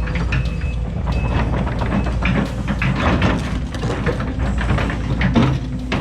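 Case 210 excavator's diesel engine running steadily, with irregular metallic clanking and knocking from the machine working.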